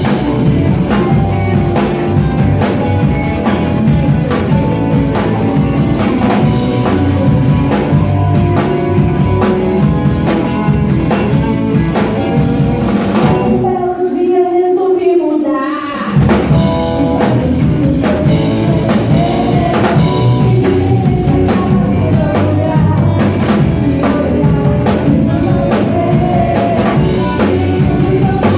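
Live rock band playing a song with drum kit, guitar, bass and singing. About halfway through, the drums stop for roughly two seconds, leaving a single held, wavering note, and then the full band comes back in.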